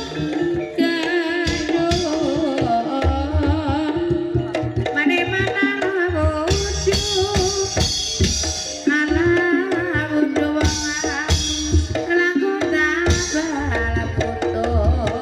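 Banyumasan gamelan music for an ebeg dance. Hand drums beat continuously under pitched percussion playing the melody.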